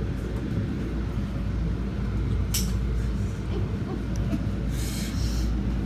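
Steady low rumble of a Metro-North commuter train, heard from inside the car, with a sharp click about two and a half seconds in and a short hiss near the end.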